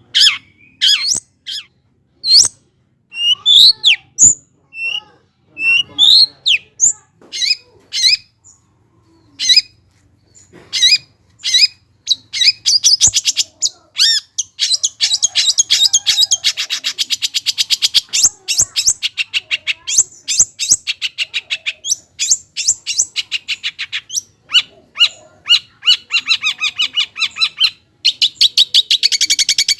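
Long-tailed shrike (cendet) singing loudly: a string of sharp, separate chips and whistles, breaking into long, fast rattling trills in the second half.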